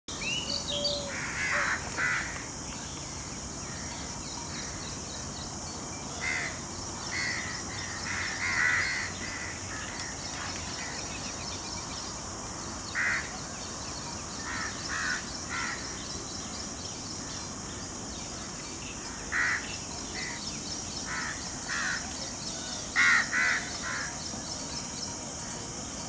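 Birds calling in scrubland: short, harsh calls in clusters of two or three every few seconds, over a steady high-pitched hiss.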